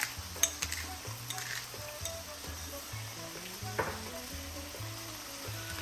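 Boneless chicken thighs frying in a pan of grapeseed oil, a faint sizzle with scattered clicks of stirring and seasoning, the sharpest about half a second in and near four seconds. Soft background music with a stepping bass line plays underneath.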